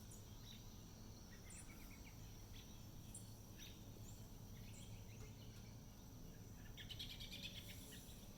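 Birds calling faintly in short scattered chirps, with a brief rapid chattering call about seven seconds in, over a steady high insect-like drone.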